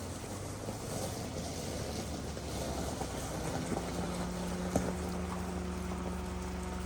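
Wind-like outdoor noise, joined about halfway through by a steady motor hum; a single sharp click comes near the end.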